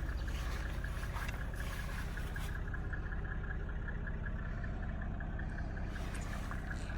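Mercedes-Benz E300 Diesel's inline-six diesel engine idling steadily, with an even low pulsing beat.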